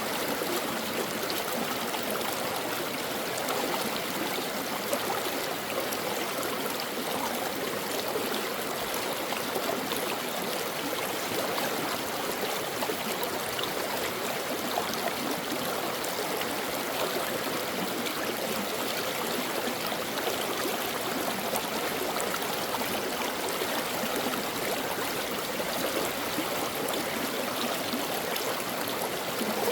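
A stream of water running steadily over rocks, with a constant rushing and small gurgles.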